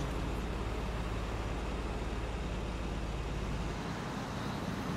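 Car engine running with a steady low rumble under an even hiss; the rumble drops away a little before the end.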